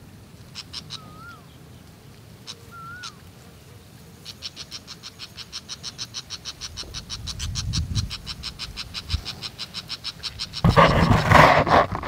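Outdoor rural ambience with a bird giving two short wavering whistled calls. From about four seconds in, a fast, even, high ticking rattle repeats about five times a second. Near the end, a loud rough noisy burst lasts about two seconds.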